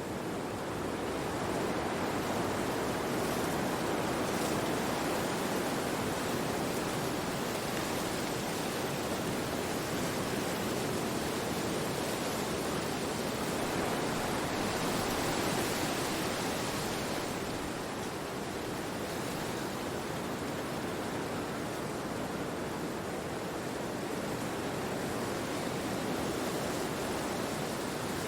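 Wind blowing through forest trees: a steady rush of moving leaves and branches that swells slightly a couple of times and eases again, with no bird calls standing out.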